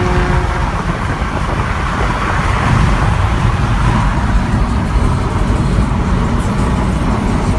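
Car on the move: a steady low rumble of engine and road noise, with no sharp changes.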